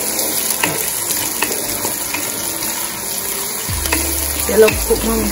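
Sliced onion, scallion and garlic sizzling in hot oil in a metal pot while a wooden spoon stirs and scrapes them around: the aromatics being sautéed before the ackee goes in. A sharper knock stands out about four and a half seconds in.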